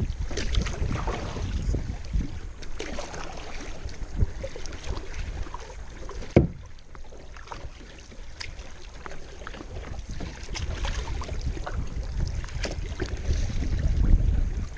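Kayak paddle strokes splashing and dripping in the water, with wind rumbling on the microphone. A single sharp knock comes about six and a half seconds in.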